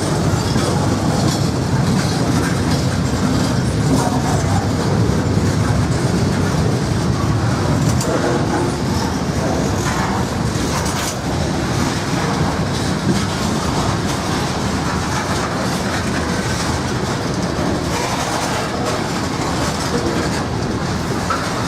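Freight train cars rolling past, wheels clattering over rail joints in a steady continuous rumble.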